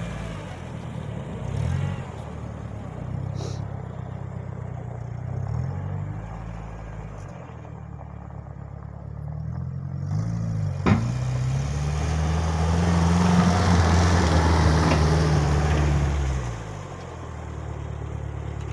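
Homemade mini tractor's engine running and changing speed. About eleven seconds in there is a sharp click, then the engine revs up and runs louder for about five seconds under load, likely while pushing snow with its blade, before dropping back to a lower speed.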